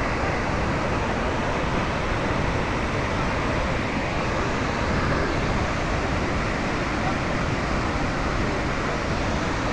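Steady rushing roar of Victoria Falls' water pouring into the gorge, even and unbroken throughout.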